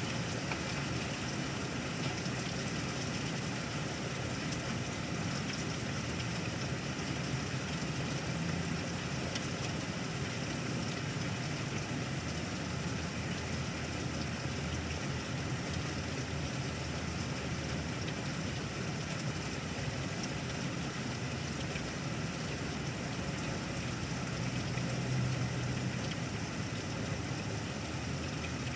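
Steady rain falling in a thunderstorm, an even hiss, over a low rumble that swells briefly near the end.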